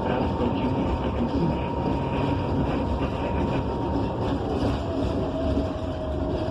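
Cabin ride noise inside a moving 2015 Gillig BRT Plus city bus: its Cummins Westport ISL G natural-gas engine and the road give a steady rumble. Over it runs a thin whine that steps down in pitch about four and a half seconds in.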